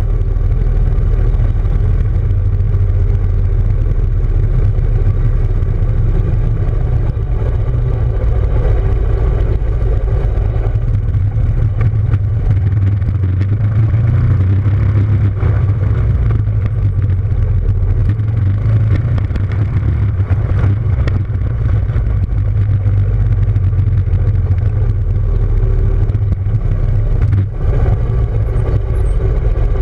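Small motorcycle engine running at a fairly steady speed, with a heavy low rumble throughout.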